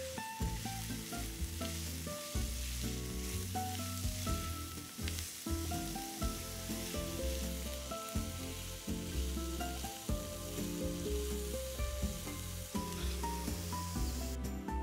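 Grated carrot, red pepper and spring onion sizzling as they fry in a non-stick pan, stirred with a silicone spatula, over soft background music with a slow melody. The sizzle cuts off near the end.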